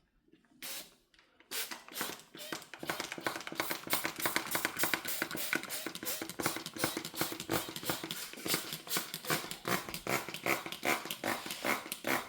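A person's nose making a rapid fluttering, rasping sound with each breath. It starts about a second and a half in and gets louder over the next two seconds.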